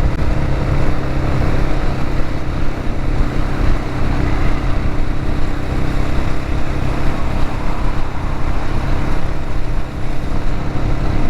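Dual-sport motorcycle engine running at steady cruising speed, with a constant rush of wind over the helmet-mounted microphone.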